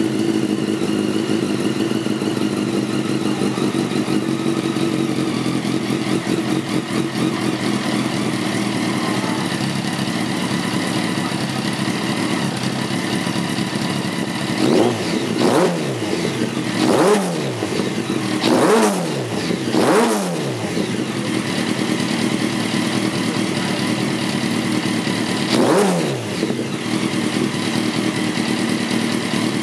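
Kawasaki ZX-10R inline-four engine idling through an LYB carbon-fibre slip-on exhaust, then blipped five times in the second half, each rev rising sharply and falling straight back to idle.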